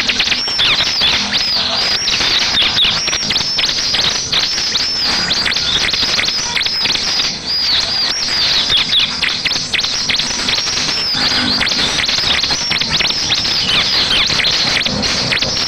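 Bar-winged prinia (ciblek) song: a fast, unbroken run of high chirping notes, many each second, each note hooking sharply down in pitch. It is a lure recording meant to get a caged ciblek to answer.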